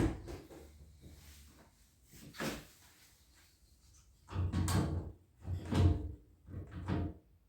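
Knocks and thumps of car body parts being handled while they are test-fitted: a single knock at the start, another about two seconds in, then a run of heavier thumps in quick succession near the end.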